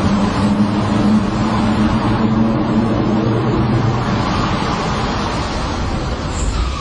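Car engine running steadily with road noise, a little quieter near the end.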